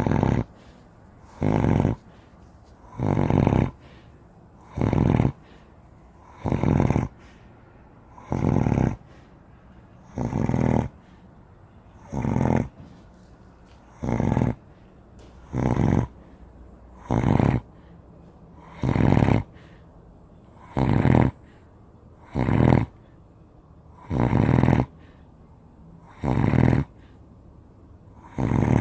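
Giant Spanish Mastiff snoring in its sleep: loud snores in a steady rhythm, about one every two seconds.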